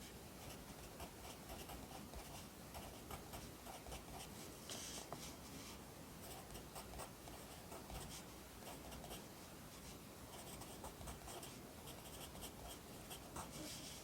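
Pencil writing on paper: faint, quick scratching strokes in an irregular run, with short pauses between them as characters are formed.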